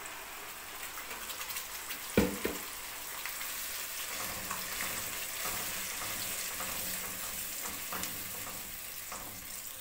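A freshly ground paste sizzling in hot oil in a kadhai as it is stirred with a silicone spatula, a steady hiss with small scraping sounds. A single sharp knock against the pan comes about two seconds in.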